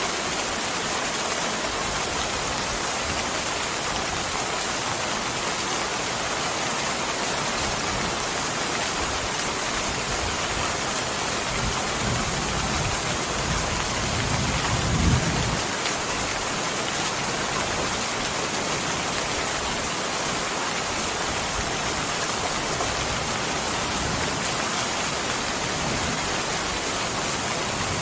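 Steady heavy rain falling, an even hiss with no pauses. About halfway through, a brief low rumble swells up and fades within a second or two.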